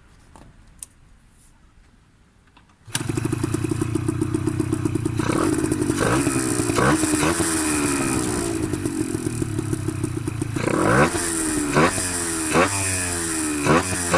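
Yamaha DT50's 50 cc two-stroke single, fitted with an RSV silencer and an oversized Mikuni VM20 carburettor, catching suddenly about three seconds in after a few faint clicks. It then idles and is revved repeatedly, each rev rising and falling, with the blips coming quicker near the end.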